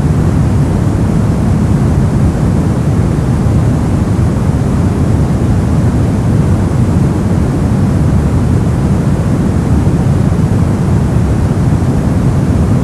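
Steady brown noise: an even, deep rushing hiss weighted towards the low end, unchanging throughout.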